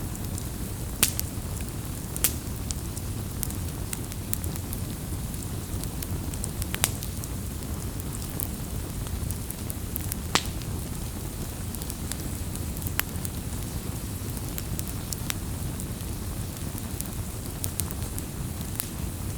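Wood campfire burning with a low steady rumble of flames and irregular sharp crackles and pops from the burning wood, a few louder pops standing out.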